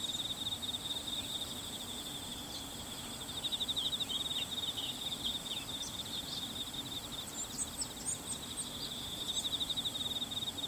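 Insects trilling steadily in a high, fast-pulsing buzz that swells and fades a few times, with a few short, high bird chirps about three-quarters of the way through.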